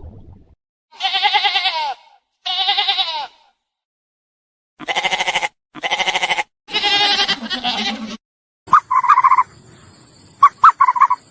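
A farm animal bleating: five loud calls with a wavering pitch, two and then three in a row, followed near the end by a few short, sharp high chirps.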